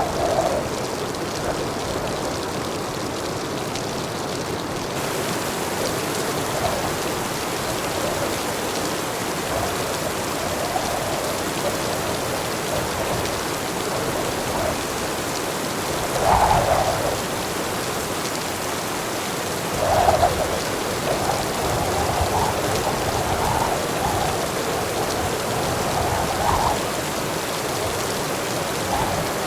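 Heavy rain falling steadily, a dense even hiss of rain on surfaces. Brief louder swells come about 16 and 20 seconds in, with smaller ones after.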